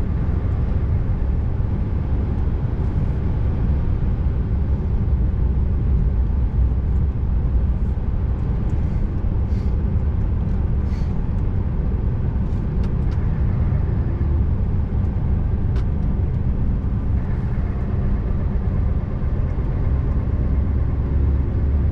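Scania R590 truck's V8 diesel engine running steadily as the truck drives along, a constant low drone.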